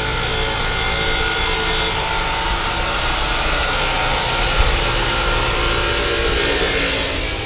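Construction machinery running steadily: a motor with several steady whining tones over a noisy hum.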